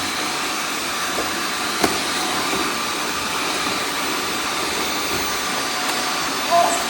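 Many robot vacuum cleaners running at once: a steady whirring hiss with several steady whining tones, and a sharp click about two seconds in.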